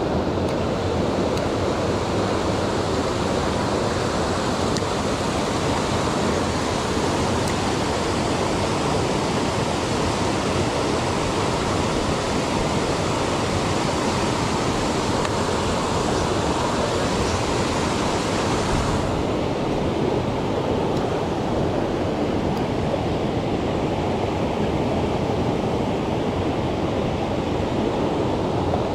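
Mountain stream rushing over rocks, a steady dense rush of water. About two-thirds of the way through, the hissier upper part of the sound drops away suddenly, leaving a duller rush.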